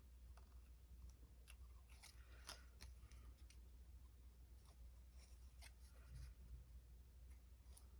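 Faint paper-crafting handling sounds: scattered light ticks and short soft scuffs of tools and paper, over a low steady room hum.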